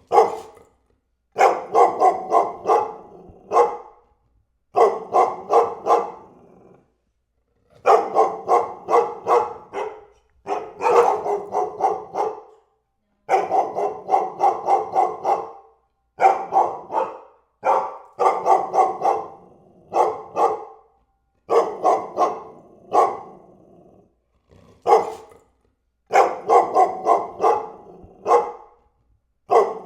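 A dog barking in quick runs of several barks, about four a second, with short pauses between the runs.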